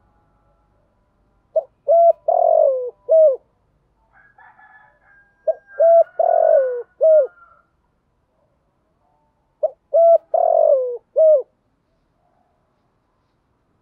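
Spotted dove singing its cooing song: three phrases about four seconds apart, each two quick notes, a long falling coo, then a short closing note. Fainter, higher calls from another bird come between the first two phrases.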